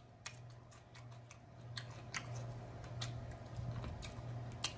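Close-miked chewing with a handful of sharp, scattered mouth clicks, over a low steady hum.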